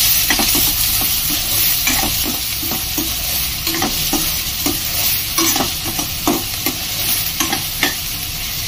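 Chopped onions and green chillies sizzling in hot mustard oil in a steel kadhai, being sautéed to take off the onions' rawness. A steel spoon stirs them, scraping and tapping the pan over and over.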